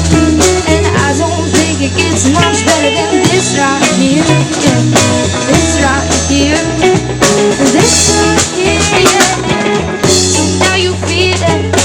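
Live band playing an instrumental passage: drum kit, bass and guitar, with some wavering melody lines that may be voice or lead guitar.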